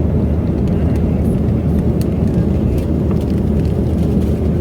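Airliner cabin noise: a steady low rumble of the jet engines and airflow heard from inside the passenger cabin, with a few faint clicks.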